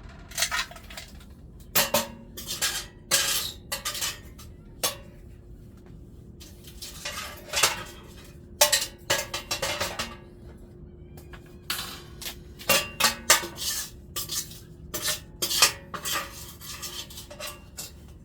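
Metal tools clanking and scraping against a wood-burning stove while it is being cleaned out: irregular knocks and scrapes, some ringing briefly, with short pauses between.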